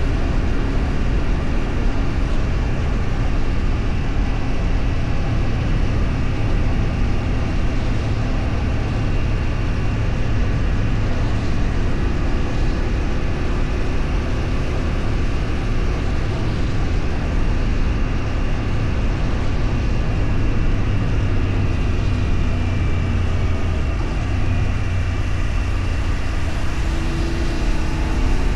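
Steady running noise of a moving vehicle on the road: a constant low rumble and rush, with a faint engine hum that shifts in pitch, rising near the end.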